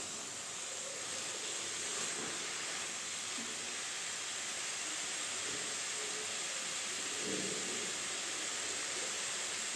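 Grated carrots sizzling steadily in hot ghee in a kadhai, a soft even frying hiss.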